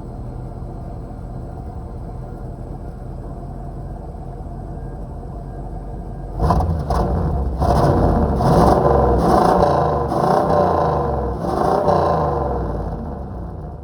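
Car V8 engine running with a steady low rumble, then revved repeatedly and loudly from about six and a half seconds in, the pitch rising and falling with each blip.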